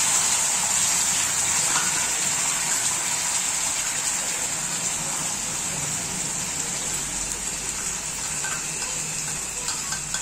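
Ground masala paste sizzling in hot ghee in a kadhai: a loud, steady frying hiss that slowly dies down as the paste settles into the fat.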